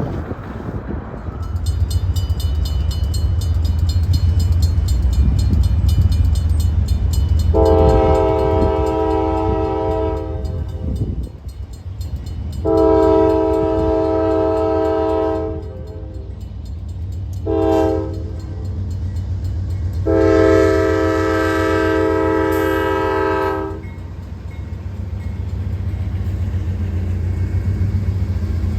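Diesel freight locomotive passing with its engine rumbling, sounding a chime horn in the grade-crossing pattern: two long blasts, a short one, and a final long one.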